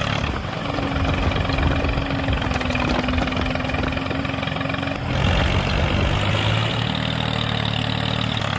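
An engine running steadily at idle, with a faint steady whine over the first half; the sound shifts about five seconds in.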